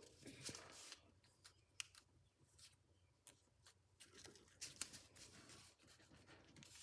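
Faint, scattered crinkles and ticks of a sheet of paper being creased and folded by hand, near silence between them.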